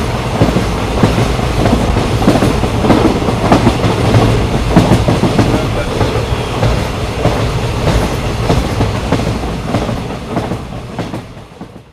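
Patna Kota Express train running at speed: a steady rumble of the coaches with wheels clattering irregularly over the rails. The sound fades out near the end.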